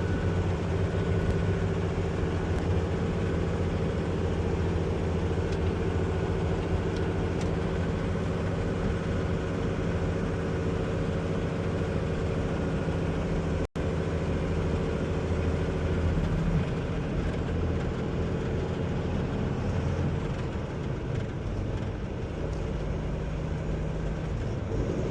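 Heavy diesel engine of a loaded semi truck running steadily, heard inside the cab while the engine brake holds it back on a long downgrade, with road noise underneath. The sound cuts out for an instant about halfway.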